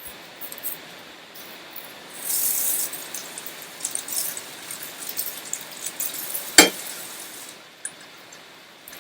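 Kitchen work with limes and a knife on a board: scattered light clicks and clinks, a brief hiss a little over two seconds in, and one sharp knock about two-thirds of the way through.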